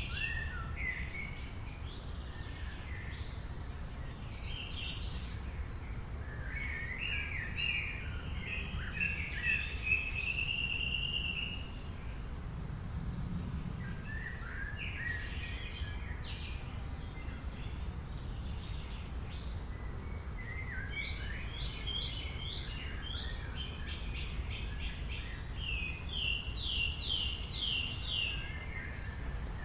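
Birds singing and calling: a mix of chirps, short whistled phrases and rapid trills of evenly repeated notes, over a steady low rumble.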